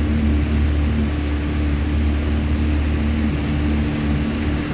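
Boat motor running steadily under way, its tone shifting a little lower just past three seconds in.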